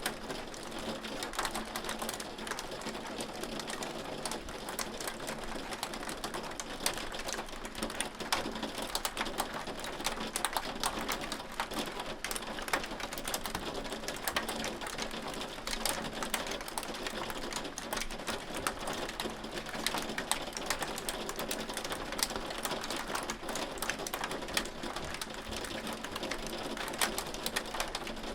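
Hailstones pelting a hard surface: a dense, continuous patter of sharp ticks and clicks, with a faint steady hum underneath.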